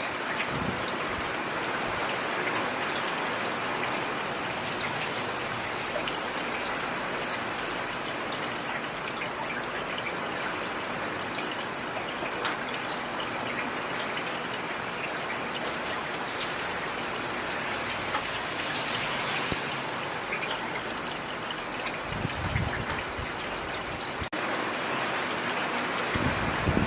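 Steady rain falling, with many individual drops ticking through an even hiss. Two brief low rumbles come near the end.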